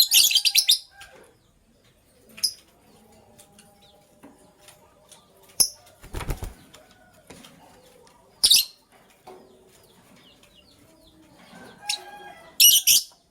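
Lovebirds giving short, shrill, harsh chirps in three loud bursts: at the start, about eight seconds in and near the end, with fainter chirps between. A dull low thump comes about six seconds in.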